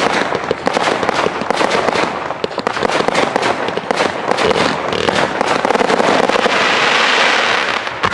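Aerial fireworks display: rapid, dense crackling reports, many per second, merging into a continuous crackle in the second half.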